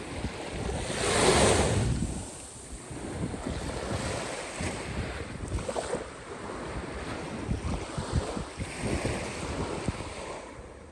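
Caspian Sea waves washing onto the shore, with one louder wave surging about a second and a half in. Wind buffets the microphone throughout.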